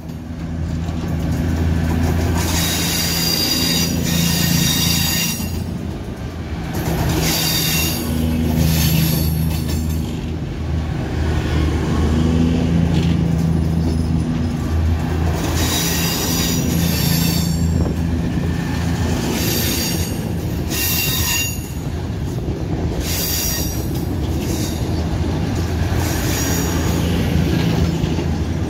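CrossCountry Voyager diesel multiple unit moving slowly past at close range, its underfloor diesel engines running with a steady low drone. Short high-pitched metallic squeals from the running gear come and go every couple of seconds.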